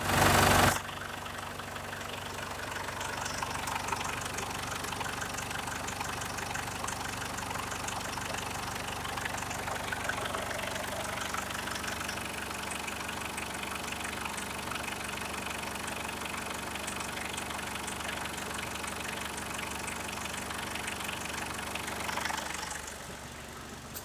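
Ford Ranger PK 3.0-litre four-cylinder turbo diesel idling steadily, after a short loud burst at the very start. The sound drops off near the end.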